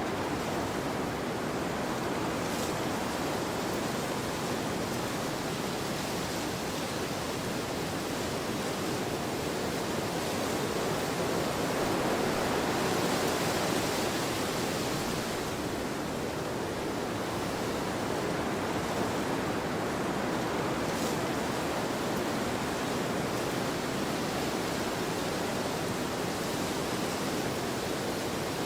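Wind blowing across an open field, a steady rushing that swells in a gust about halfway through and then settles back.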